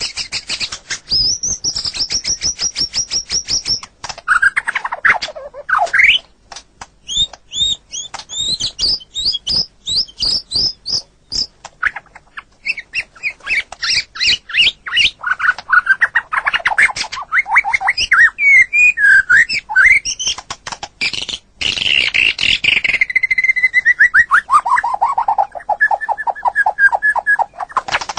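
White-rumped shama (murai batu) singing a varied, continuous song. It runs through fast series of repeated high notes, rising and falling whistled glides and quick clicking notes, and near the end gives a long run of notes that falls steadily in pitch.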